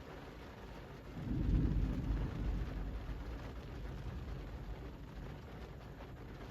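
Steady rain falling on a city street, with a low rumble that swells sharply about a second in and slowly fades away over several seconds.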